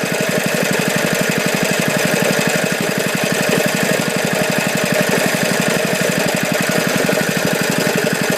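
Lifan 6.5 hp single-cylinder four-stroke engine idling with a steady, even exhaust beat, its fuel shut off so it is running on the last of the gas in the carburettor.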